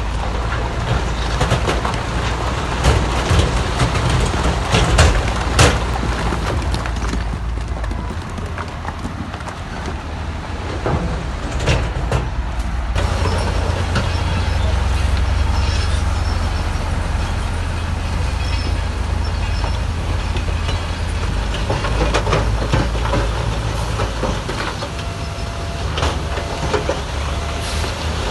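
Heavy earthmoving machinery at work: a diesel engine running with a steady low drone, with repeated metallic clanks and knocks, many in the first few seconds and more again later on.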